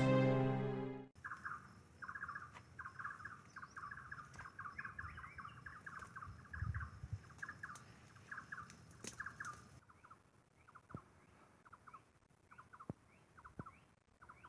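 Intro music ending about a second in, then birds calling in forest: many short trilled chirps repeated over and over. About ten seconds in the sound changes to a quieter take with sparser chirps and short rising notes.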